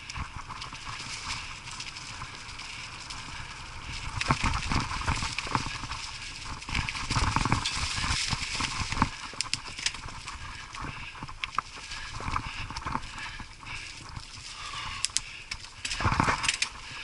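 Mountain bike rattling and knocking as it rides over a rough dirt trail, with irregular thuds and clatter from the frame and wheels over roots and bumps. The clattering gets louder about four seconds in and again near the end.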